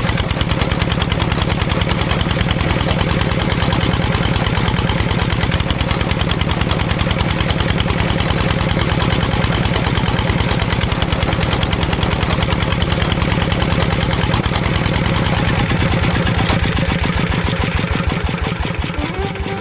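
Small engine running steadily at idle with a fast, even putter.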